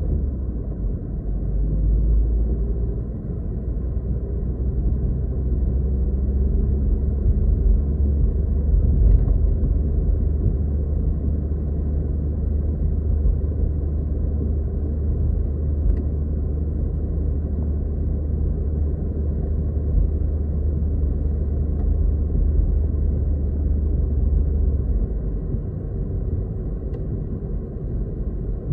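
Car driving, heard from inside the cabin: a steady low road and engine rumble. The deepest part of the rumble eases off near the end.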